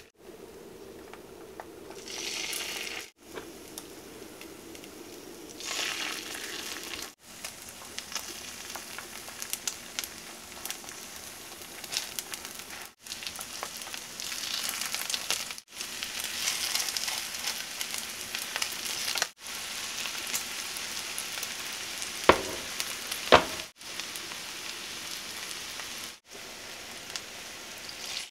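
Egg-battered pork belly slices sizzling as they pan-fry in oil, heard in a run of short cut-together clips. Two sharp taps about a second apart stand out past the middle.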